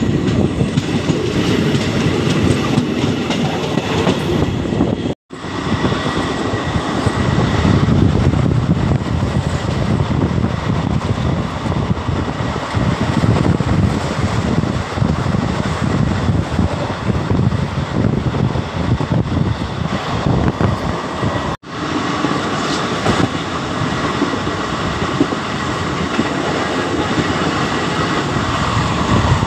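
Moving passenger train heard from its open doorway: a steady loud rumble of wheels on rail with clickety-clack. The sound drops out briefly twice, about five seconds in and again about twenty-two seconds in.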